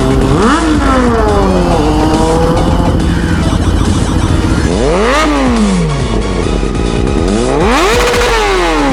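Kawasaki Ninja 636's inline-four revved through a Competition Werkes GP slip-on exhaust: three rises in pitch, each sliding back down, the last held briefly at the top. Music plays underneath.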